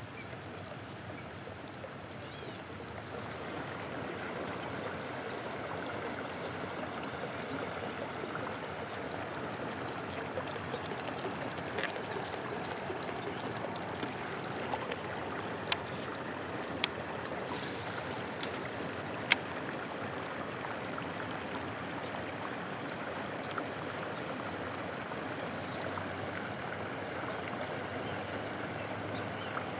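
Steady gurgling rush of water, with a few sharp clicks around the middle.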